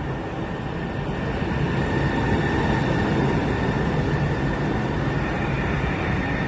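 Seattle Center Monorail train running, a steady rumble with a thin, steady high whine.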